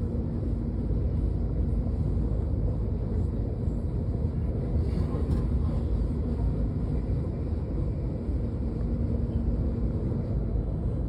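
Train running with a steady low rumble and a faint hum that comes and goes.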